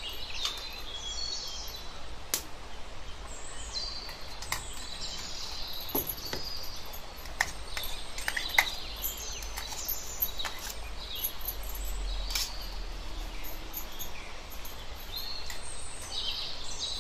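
Small birds chirping and twittering on and off, with a few sharp clicks in between.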